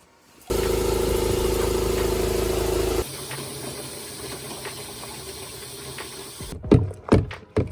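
Motorcycle V-twin engine running, most likely the Harley-Davidson Sportster 883 Iron: it comes in suddenly about half a second in and is loud for about two and a half seconds, then drops to a lower, steadier running. Near the end a few short, sharp sweeping sounds stand out.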